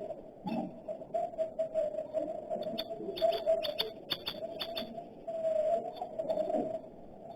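Birds calling: a low cooing series of notes that runs on throughout, with many short, sharp chirps over it, busiest around the middle.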